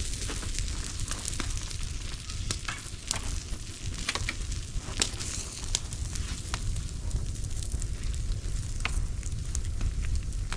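Bonfire of old roofing felt and plastic sheeting burning, hissing steadily with irregular sharp crackles and pops over a low rumble.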